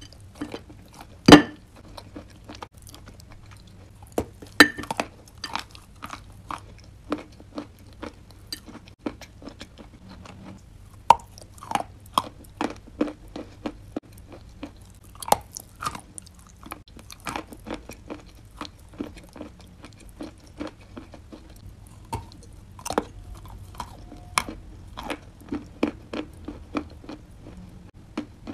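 A person biting and chewing chunks of chalk and clay coated in a creamy paste, making dry, crisp crunches at an irregular pace. The loudest bites come about a second in and at about four and a half seconds.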